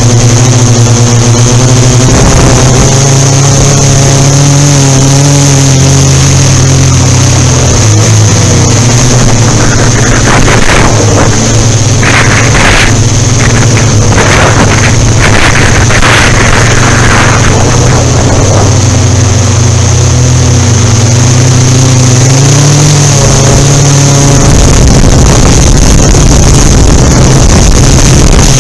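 Yuneec Typhoon Q500 4K quadcopter's motors and propellers humming as it flies, with a steady high whine over the low hum and the hum's pitch shifting as the motors adjust. Through the middle, a rough rushing noise of wind on the microphone joins in.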